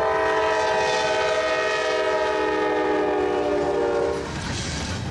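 Steam locomotive chime whistle sounding one long chord blast of about four seconds, then cutting off, leaving a rumbling hiss.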